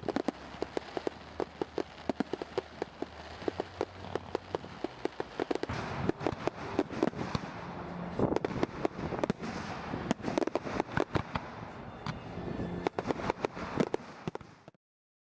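Fireworks crackling and popping: dense, irregular sharp pops several a second, with louder bangs about eight and thirteen seconds in. The sound cuts off suddenly just before the end.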